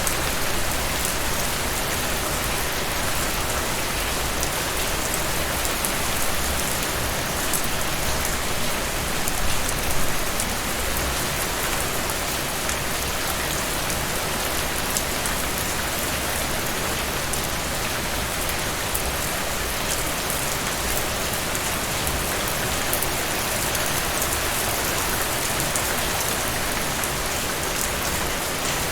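Steady rain falling, an even hiss with many small drops ticking on a surface, a little louder for a moment around ten seconds in.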